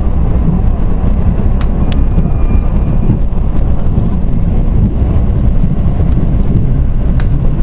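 Mugunghwa-ho passenger train running at speed: a loud, steady low rumble of wheels on rail, with a few sharp clicks about a second and a half in, again just after, and near the end.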